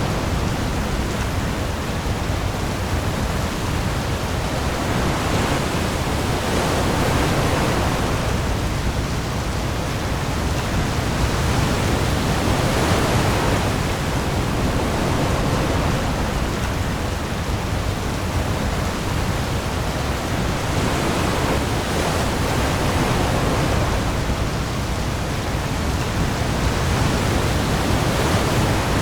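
Heavy rain falling on the open sea with waves: a dense, steady hiss with a deep low rumble beneath, swelling and easing every few seconds.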